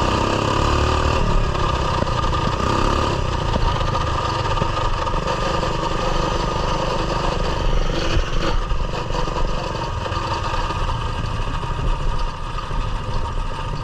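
Coleman mini bike's small single-cylinder four-stroke engine running as the bike is ridden, with the engine speed rising in the first few seconds.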